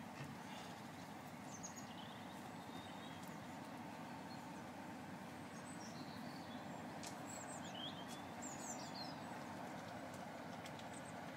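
Small birds chirping in short, quick calls several times over a steady low rumble, with the chirps busiest near the end.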